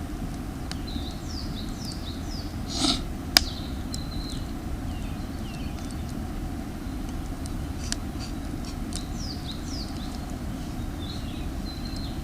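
Small birds chirping over and over in short sweeping notes, over a steady low rumble, with a few sharp clicks and one louder knock about three seconds in.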